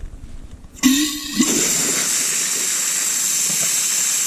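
A toilet flushing: a sudden loud rush of water starts about a second in, with a short gurgling tone at the onset, then holds as a steady hissing rush.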